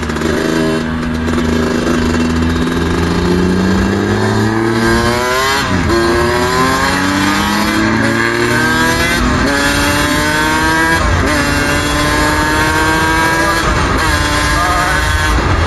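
Suzuki RM125's single-cylinder two-stroke engine pulling hard under way, its pitch climbing in each gear with upshifts about six, nine and eleven seconds in, then settling to a near-steady cruise.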